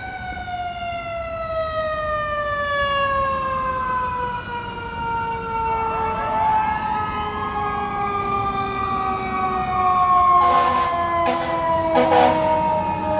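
Fire apparatus sirens on an emergency response: a siren's long tone falling slowly in pitch throughout, like a mechanical siren winding down, with a second electronic siren sweeping up and down briefly about halfway through. Near the end come three short horn blasts.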